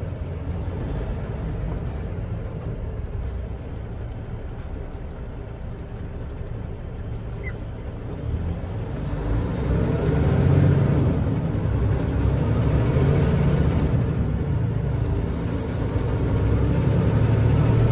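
Semi truck's diesel engine running in slow traffic, then pulling harder and growing louder about halfway through as the truck gets moving, easing briefly and building again near the end.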